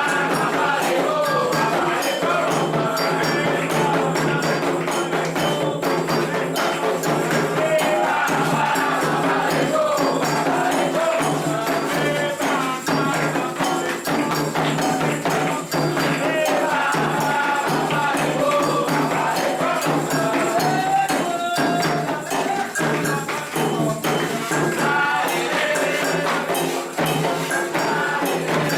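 Candomblé ritual music for Oxalá: voices singing a chant over continuous hand-drum and jingling, rattling percussion.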